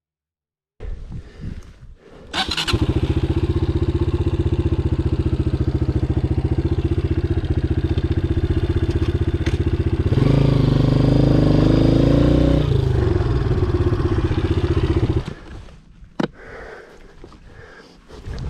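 Dirt bike engine running at a steady throttle while riding, its pitch rising about ten seconds in as it accelerates and then settling back. A few seconds from the end it drops away suddenly to a much quieter sound.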